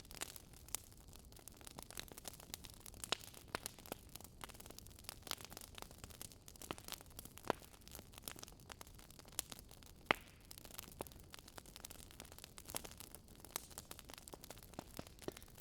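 Faint crackling wood fire: irregular sharp pops and snaps, several a second, over a soft steady hiss.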